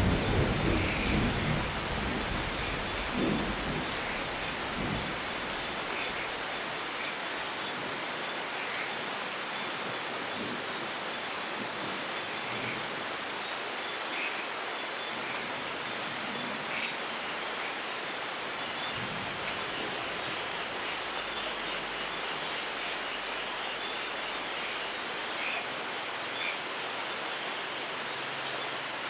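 Steady rainfall, an even hiss of falling rain, with a low rumble of thunder in the first few seconds that dies away.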